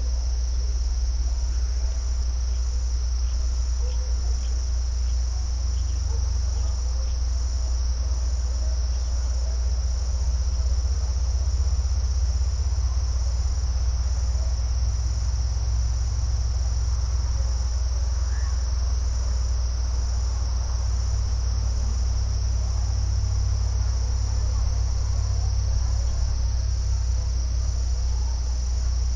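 Crickets chirring steadily in a continuous high-pitched trill, over a steady low rumble.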